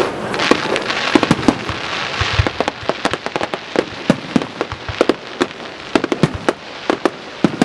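Fireworks going off in a display: a dense, irregular run of sharp bangs and crackling pops, with a hissing wash in the first couple of seconds.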